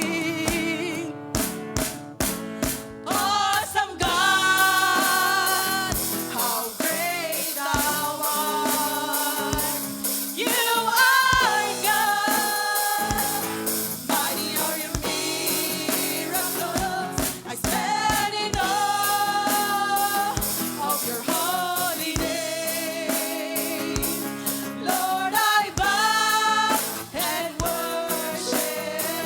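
Live gospel worship music: a band with drum kit plays drum hits for the first few seconds, then a group of singers comes in over the band at about four seconds in.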